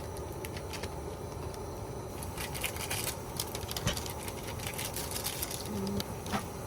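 A pot of instant ramyeon noodles cooking on a camp stove, heard as a steady low rumble with scattered light clicks and taps.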